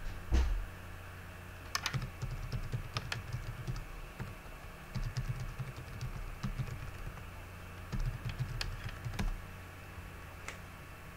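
Typing on a computer keyboard in three short bursts of keystrokes, entering an email login. A low thump comes at the very start.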